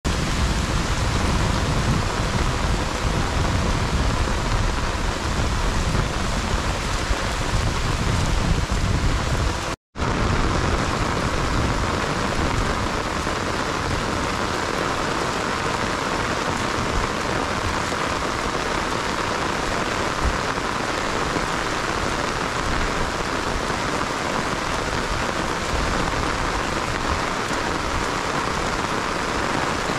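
Heavy rain falling steadily on a rice paddy field and the trees around it, a dense, even hiss. It is deeper in the first ten seconds, and the sound cuts out for an instant just before ten seconds in.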